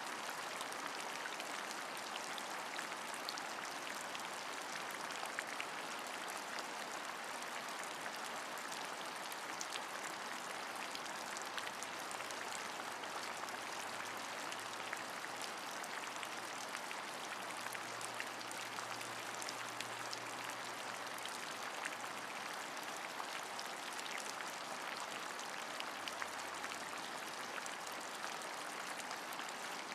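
Steady rain, an even hiss with many small drops ticking through it.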